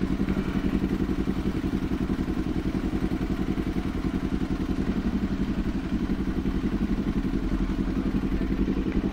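Kawasaki Z400 parallel-twin engine running at low, steady revs with an even, rapid exhaust pulse, no revving.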